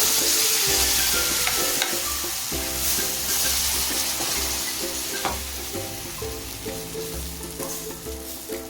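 Chilla batter sizzling on a hot pan. The sizzle starts suddenly, loud at first, then slowly eases.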